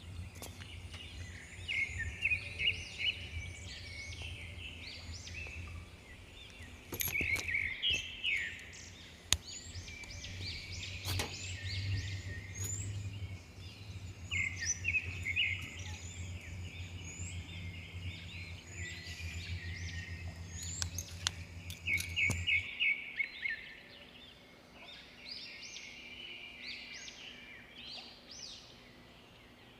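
Several birds chirping and singing in quick, overlapping calls, over a low steady hum that cuts off about three-quarters of the way through.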